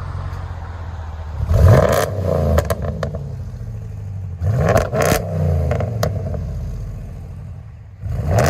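Ram 1500's 5.7-litre HEMI V8 through true dual exhaust with Dynomax Race Bullet mufflers and factory resonators, idling and revved twice, each rev rising and falling back to idle, with a few sharp cracks as the revs drop. A third rev starts near the end.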